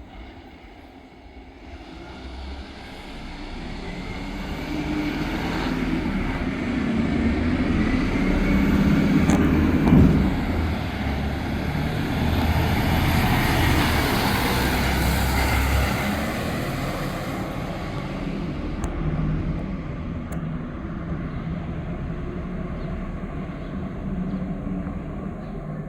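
Enviro NZ recycling truck running close by, its engine noise building to a peak about ten seconds in, where there is a sharp knock, then easing off gradually.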